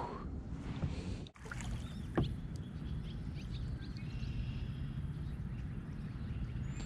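Steady low rumble of water and hull noise from a kayak on a river, with a single sharp knock about two seconds in and a few faint high chirps later.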